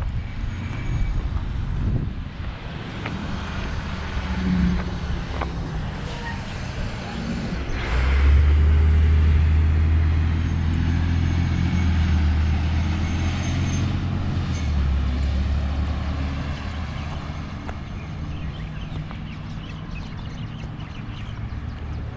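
A large engine running with a steady low hum, which grows louder from about eight seconds in and eases off again a few seconds later, as if a heavy vehicle is passing close by.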